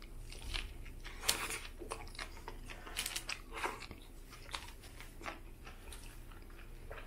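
A man biting into and chewing a mouthful of Subway Italian BMT sub bread and cold cuts, heard as irregular short clicks and smacks of the mouth.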